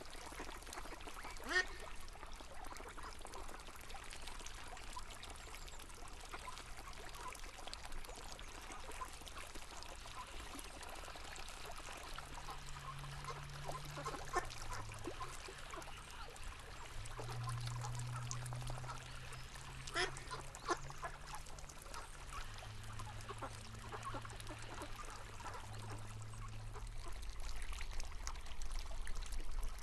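River water flowing and trickling steadily, with ducks quacking now and then, and a low steady hum for a while in the middle.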